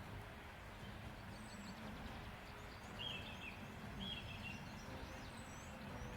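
Quiet outdoor nature ambience: a steady low hiss with birds chirping. There are two short warbling calls about three and four seconds in, and repeated faint, high, short chirps.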